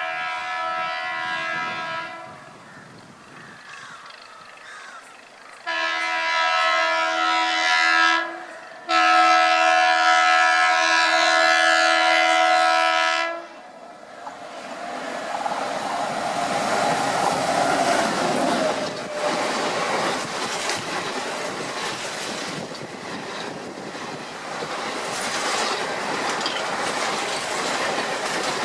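Indian Railways train: the locomotive horn sounds three blasts, a short one, then two long ones, the last held about four and a half seconds. Then the train runs by with a steady rumble and wheel clatter on the rails.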